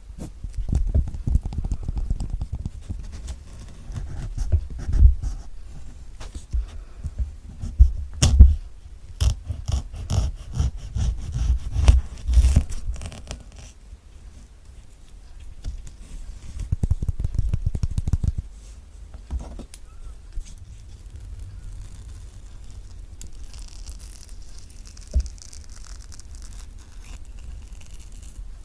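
Close-miked kiwi being handled: many taps, knocks and scratches on its fuzzy skin, then a knife cutting it in half with a busy run of fine rasping strokes. Near the end come softer sounds of the flesh being scooped out.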